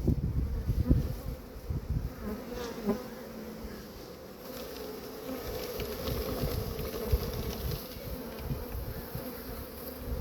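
Honeybee swarm buzzing, a steady hum of many bees. Wind gusts rumble on the microphone in the first couple of seconds.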